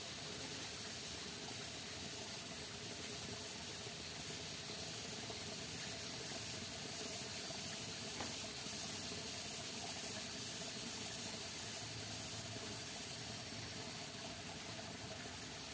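Steady rainforest ambience: an even, unbroken hiss, strongest high up, with no distinct events.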